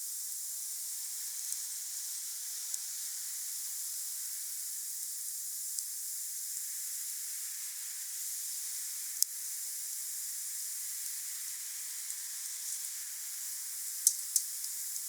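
Wood fire burning with a steady hiss and occasional sharp pops and crackles, the loudest about two-thirds of the way in and two close together near the end.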